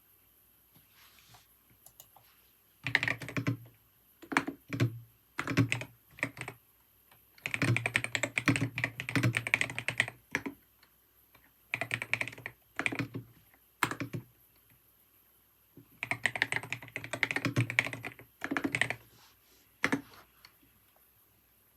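Typing on a computer keyboard: runs of rapid keystroke clicks broken by pauses of a second or so. The first faint taps come about a second in, and the last keystroke falls near the end.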